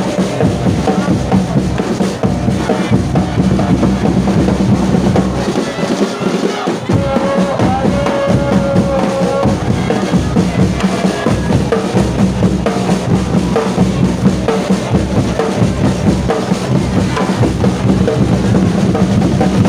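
Football supporters' drums beating a fast, steady rhythm in the stands, with the crowd's singing faintly heard over it around the middle.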